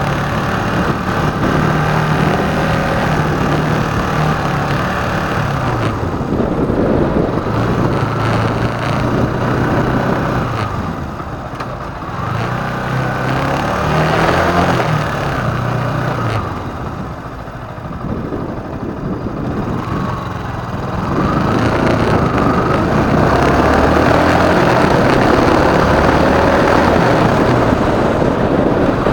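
Motorcycle engine running through city traffic, its revs rising and falling with throttle and gear changes. It eases off twice in the middle, then runs steadier and louder toward the end.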